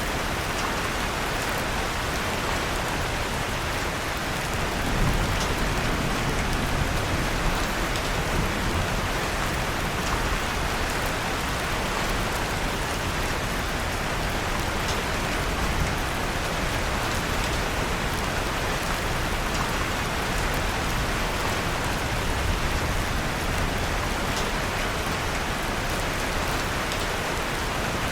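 Steady rain falling, an even hiss of drops, with faint scattered crackles of a fireplace fire mixed in.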